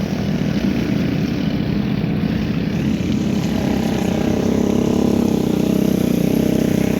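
Motor vehicle engine running with a steady low rumble and road noise, its engine note rising and strengthening from about halfway through.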